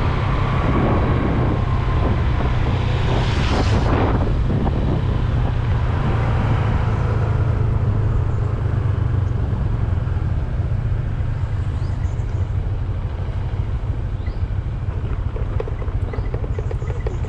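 Riding sound of a Honda Click 125i scooter: a steady low rumble of engine and wind on the microphone. A louder whoosh builds and cuts off sharply about four seconds in, and the sound eases a little in the second half.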